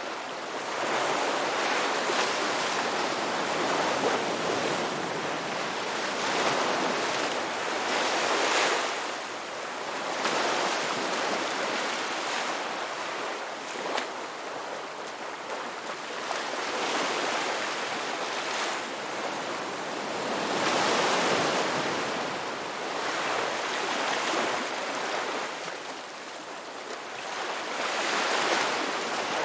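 Ocean waves breaking and washing on a rocky beach, a continuous rushing surf that swells and ebbs every few seconds, with stronger surges now and then.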